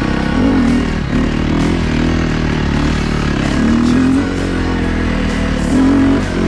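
Enduro motorcycle engine revving, its pitch rising and falling several times as the throttle is opened and closed.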